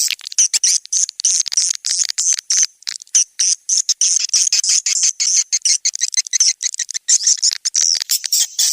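Swiftlet-house lure recording of swiftlet calls: a dense, unbroken stream of rapid, high, twittering chirps. It is an outdoor calling sound, played from outside a swiftlet house to draw passing swiftlets in to roost and nest.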